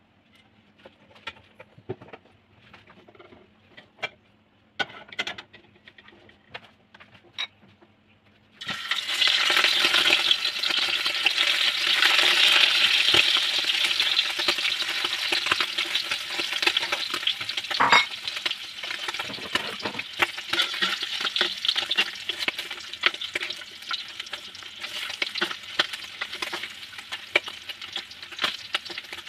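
Pork ribs frying in hot oil in a wok: a loud, dense sizzle with crackling that starts suddenly about eight seconds in and slowly eases. Before it come only faint scattered clicks.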